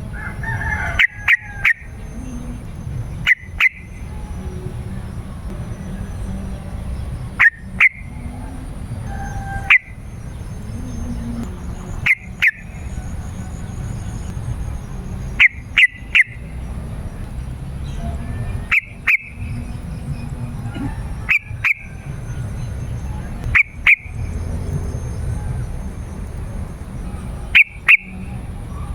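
Yellow-vented bulbul (trucukan) calling: short, sharp, loud notes, often in quick pairs, repeated every two to four seconds over a steady low rumble.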